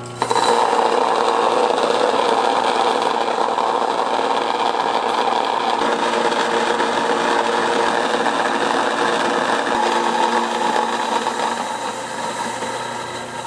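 An electric motor-driven kitchen machine running steadily with a constant hum. It is switched on abruptly and stops suddenly near the end.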